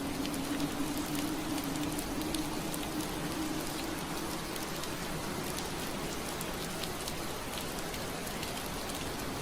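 Steady rain pattering against window glass, with scattered faint drop ticks. A low steady drone under it fades away in the first few seconds.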